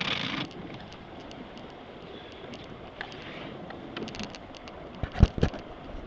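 Steady wash of water and wind aboard a sailboat under way, with a short hiss at the start and scattered light clicks. About five seconds in come two or three heavy low thumps, the loudest sounds here.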